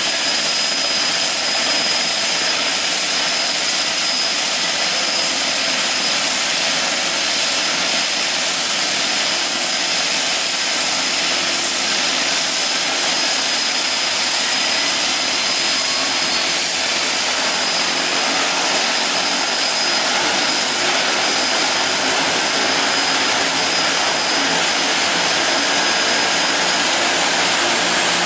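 Seaplane air taxi's turboprop engines running steadily: a loud, even roar with a thin, high, constant whine over it.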